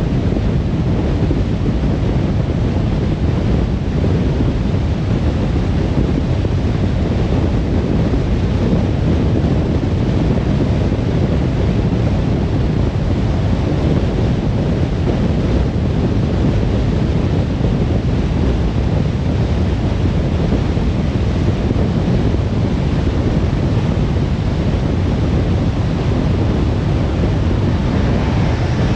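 Steady low rumble of road and wind noise from a car driving at speed.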